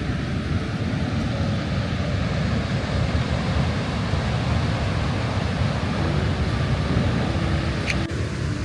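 Steady roar of Niagara Falls' cascading water, a loud, even rush heaviest in the low end, with a brief high squeak about eight seconds in.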